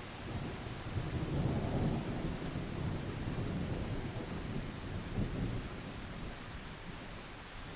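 Distant thunder rumbling low, swelling about a second in and slowly fading over several seconds, over steady rainfall.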